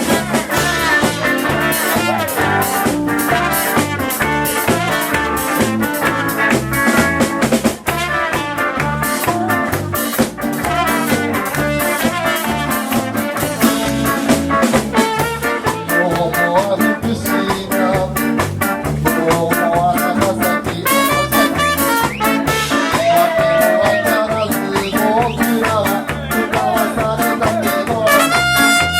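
A live band playing an upbeat instrumental passage with a steady drum beat and horn lines, in a ska or swing style.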